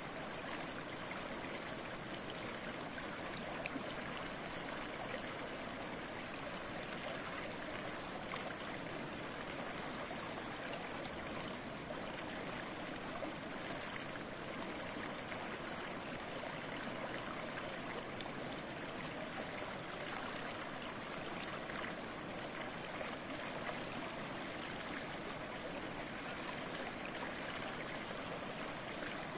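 Small stream babbling and trickling steadily over stones, an even rush of flowing water with fine splashes and no pauses.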